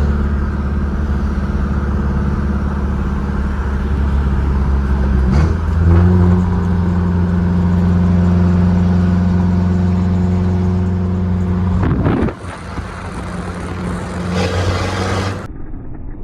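Pickup truck engine running steadily while driving, a low even drone that steps to a new pitch about five seconds in and breaks off briefly around twelve seconds in.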